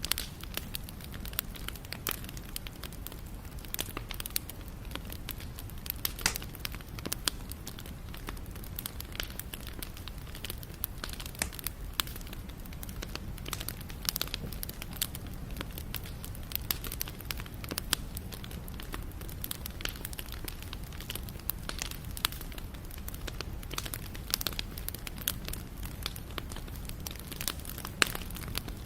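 Wood fire burning, with a dense, irregular run of sharp crackles and pops over a low steady rumble.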